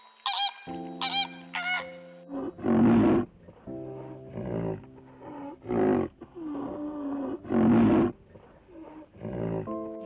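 Three short chirping calls, then a large animal's loud, rough roaring calls, four main ones about every one and a half to two seconds, over steady background tones.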